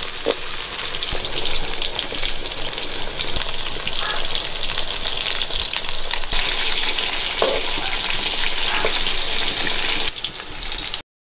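Steady sizzling and crackling of food frying in hot oil, which cuts off abruptly near the end.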